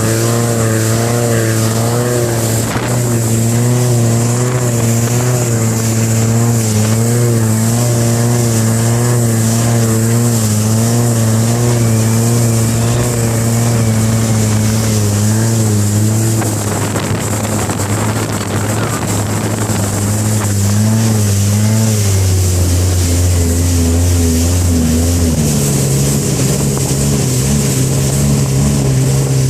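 Longtail boat engine running under way, a steady drone over rushing noise; its note drops lower past the middle, then rises again a few seconds later as the throttle changes.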